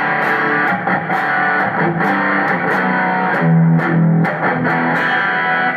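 Electric guitar played through a Zoom G3Xn multi-effects pedal on the bridge pickup, heard through a guitar amp in the room. It plays a phrase of picked notes that changes pitch, then stops abruptly near the end.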